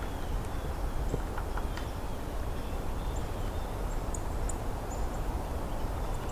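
Faint, short, high calls of American tree sparrows in the distance, several coming about halfway through, over a steady low rumble of background noise.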